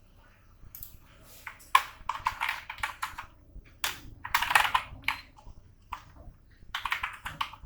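Computer keyboard typing in quick runs of keystrokes with short pauses between them, starting a little under two seconds in.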